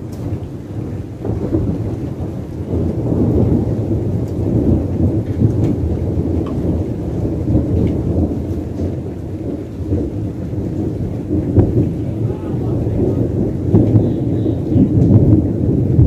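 Long rolling thunder rumble, picked up on a phone's microphone: deep and uneven, it builds over the first few seconds, rolls on with swells and dips, and grows louder again near the end.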